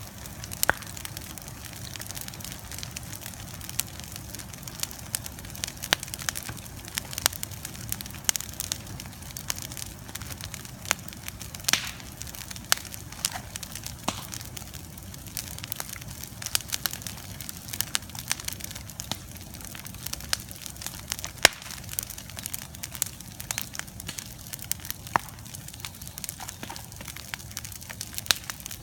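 Bonfire burning, crackling with frequent irregular sharp pops and snaps over a steady low rushing noise.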